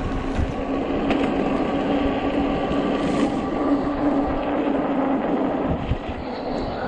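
Fat-tire 48 V e-bike under way: a steady rolling rumble with the even whine of its electric motor.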